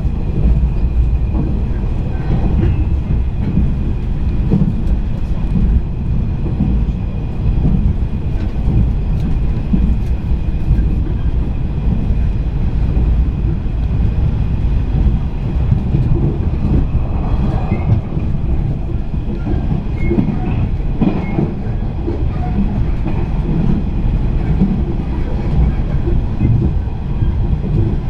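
A JR East 485 series electric train running, heard from inside the passenger car: a steady low rumble of wheels on rail, with a few light clicks now and then.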